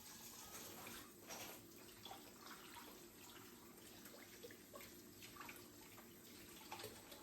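Faint water running from a tap into a sink, with small splashes and ticks scattered through.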